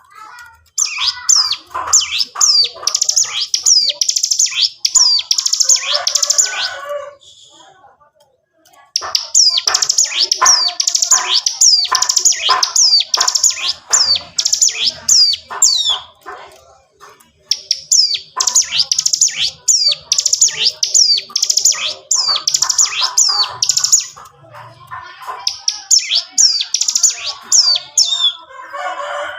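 Ciblek gunung (a mountain prinia) singing in its rapid 'ngebren' style: long bouts of quick, sharp, downward-sweeping high notes, four bouts with short pauses between them.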